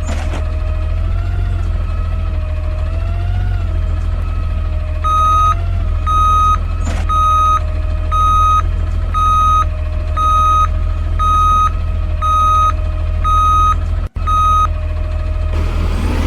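Side-loader garbage truck's engine running with a low rumble and a whine that wavers in pitch over the first few seconds. About five seconds in, its backup alarm starts beeping, about once a second, ten beeps in all, stopping near the end.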